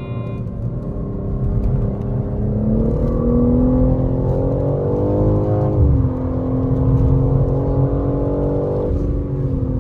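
Car engine pulling hard on track, its pitch climbing steadily. The pitch drops sharply about six seconds in and again near the end, as the car shifts up through the gears.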